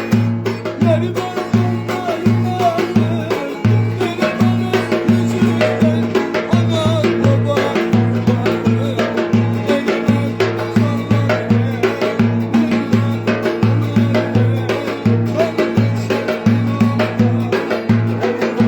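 Turkish folk dance tune (oyun havası) in the Ereğli–Alaplı style, with a steady quick drum beat under a wavering melody.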